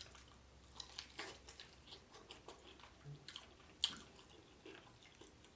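Close-miked chewing of fried chicken: faint, irregular wet mouth clicks and small crunches, with one sharper click nearly four seconds in.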